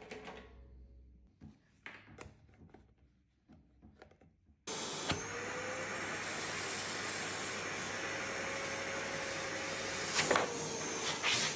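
A few knocks and handling clunks, then a DeWalt construction vacuum switches on about halfway through, its motor spinning up and running with a steady airflow hiss. Two brief louder rushes come near the end.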